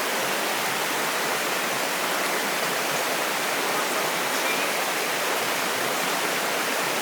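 Rushing water: a steady, unbroken hiss of fast-flowing water.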